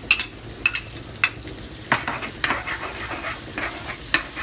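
Chopped onion and garlic sizzling in oil in an aluminium electric wok. A metal spoon clinks three times in the first second and a half, then scrapes and stirs through the pan about twice a second.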